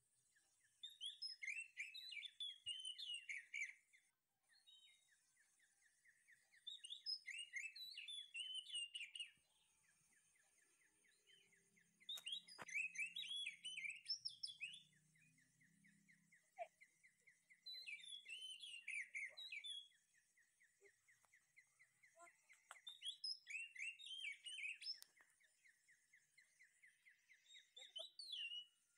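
A songbird singing phrases of quick, varied chirps, each two to three seconds long and repeated about every five to six seconds, over a steady high trill.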